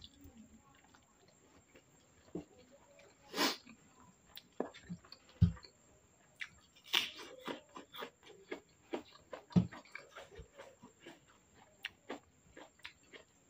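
A person biting and chewing crisp raw vegetables close to the microphone: many small crunches and wet mouth clicks, with two louder low thumps about five and a half and nine and a half seconds in.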